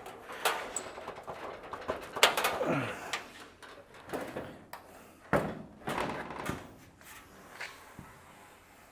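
Irregular clunks and knocks from the steel trunk lid of a 1928 Ford Model A coupe as it is handled and worked on. The loudest knock comes about five seconds in, and the sounds grow fainter near the end.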